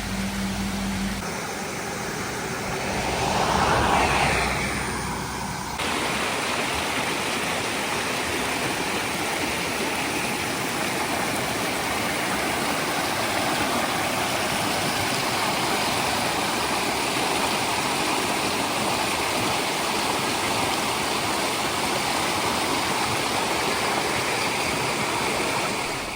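Valley stream water rushing steadily. In the first few seconds a separate whooshing sound swells and fades before the water sound settles in.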